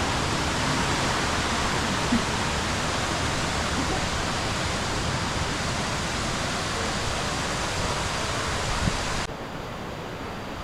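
Waterfall's water rushing, a steady, even noise. About nine seconds in it drops suddenly to a quieter rush.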